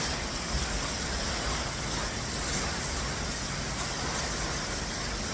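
Perrine Coulee Falls pouring down the cliff, a steady rushing of falling water with no change from start to finish.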